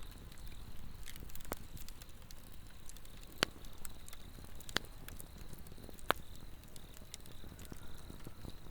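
Swedish torch, an upright split log burning from within, crackling, with a few sharp pops in the middle. Under it runs a steady high insect trill.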